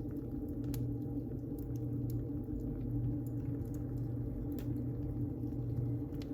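Wood fire burning in a fireplace: a steady low rumble of the flames with scattered sharp crackles and pops, a few of them louder, near a second in and a little past the middle.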